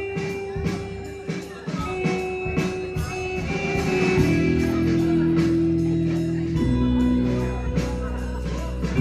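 Live rock band playing: held electric guitar chords over evenly spaced cymbal ticks, with the low end growing heavier about six and a half seconds in.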